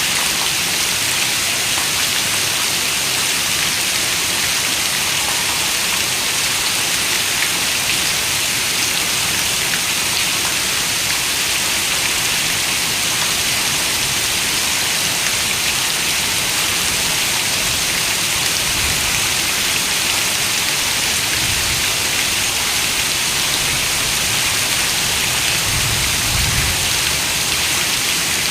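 Steady rain, an even hiss of many drops falling without pause, with a faint low rumble near the end.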